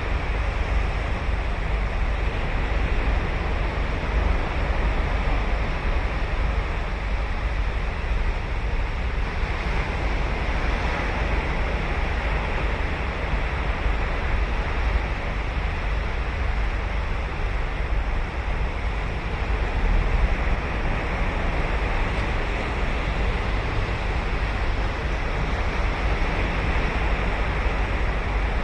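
Ocean surf washing onto a sandy beach: a steady, unbroken rush of breaking waves that swells a little now and then.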